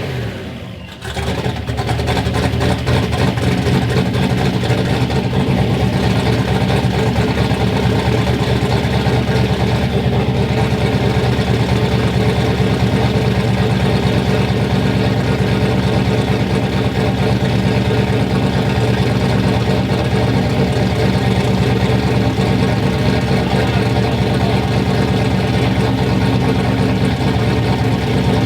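Ford Ranger's turbocharged engine, its top end freshly rebuilt, idling steadily soon after its first start. The sound dips briefly about a second in, then holds a steady, even idle.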